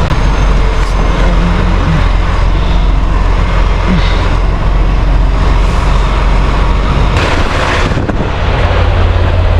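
Semi truck's diesel engine running with a steady low rumble as the truck maneuvers to drop its trailer, with a brief hiss about seven seconds in.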